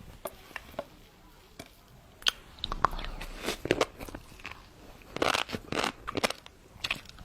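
Close-miked eating of shrimp topped with fish roe: bites and chewing with sharp, crackling crunches that come in clusters, loudest in the second half.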